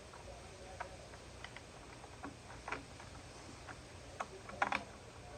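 Scattered light clicks and taps of parts being handled while a Stihl BR600 backpack blower is put back together, with a quick cluster of sharper clicks near the end.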